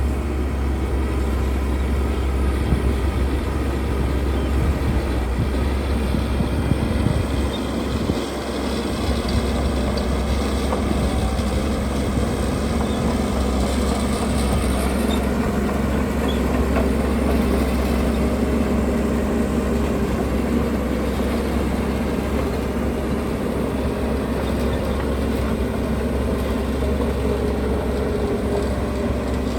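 Heavy earthmoving machinery's diesel engine running steadily, with a brief dip in level about eight seconds in.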